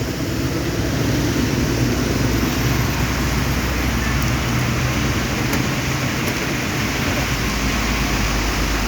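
Heavy rain falling steadily, a dense even hiss, over a low steady hum.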